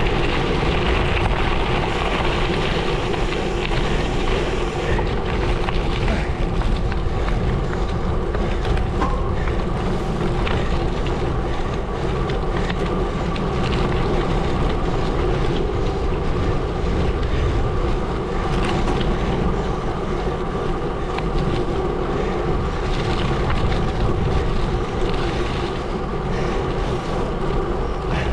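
Gravel bike rolling over a gravel road: a steady rumble and crunch of tyres on loose gravel, with wind noise on the microphone.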